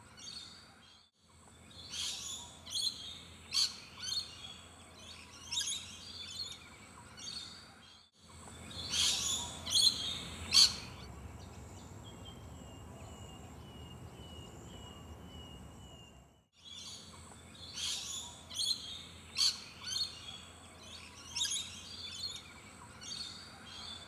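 Birds calling at a wetland: short, sharp, high calls repeated every half second to a second, in three stretches with brief breaks between them. A faint, thin run of quick notes sounds through the middle stretch.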